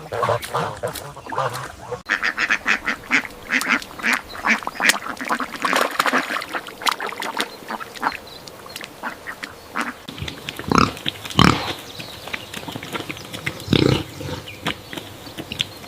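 Ducks calling: a fast run of short calls for the first two-thirds, then three louder calls near the end.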